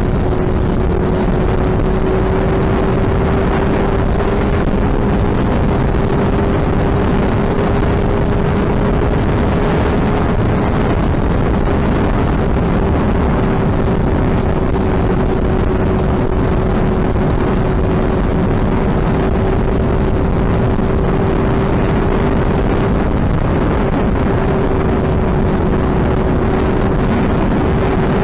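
Suzuki Hayabusa's inline-four engine droning at a steady, near-constant pitch, with heavy wind rushing over the microphone, as the bike cruises at steady speed.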